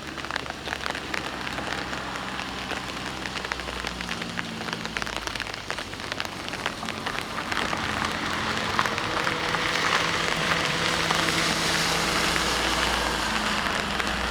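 Heavy typhoon rain falling, with many separate drop hits ticking on a hard surface over a steady wash, growing louder after about eight seconds. A faint low steady hum runs underneath.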